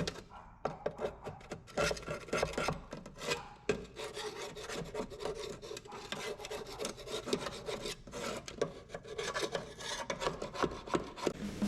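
Old paint being scraped off a metal truck part by hand, in quick, uneven scraping strokes with the paint coming away easily.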